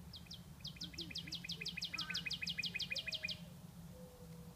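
A songbird singing a fast series of repeated high, downslurred notes, about six a second, for about three seconds before stopping.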